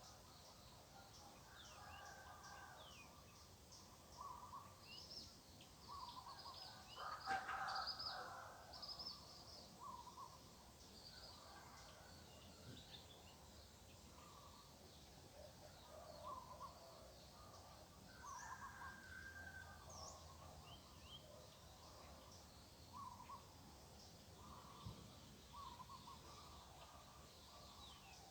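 Several birds calling faintly against a low background hiss: short repeated calls and higher chirps throughout, with one louder call about seven seconds in.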